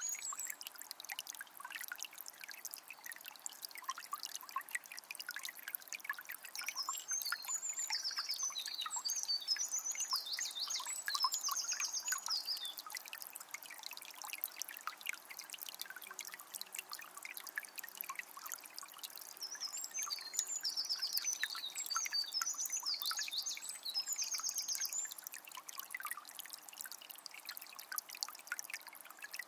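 Shallow forest river trickling and babbling over stones, a steady splashing with many small drips and gurgles. A songbird sings two bouts of quick high phrases, one a quarter of the way in and one past the middle.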